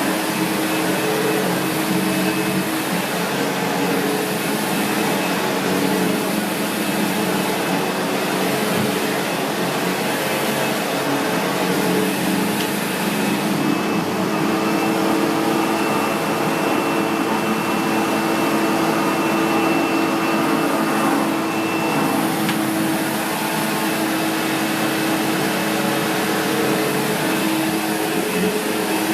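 Vacuum cleaner running steadily, its high hiss swelling and fading every couple of seconds as it is worked over the floor. A thin high whistle joins for several seconds in the middle.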